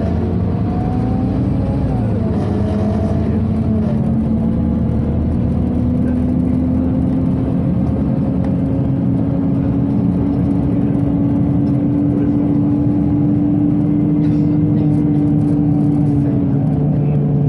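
Scania Omnicity city bus heard from inside while under way. The engine pulls steadily, its note climbing slowly for about ten seconds and settling lower near the end, over a constant running hum.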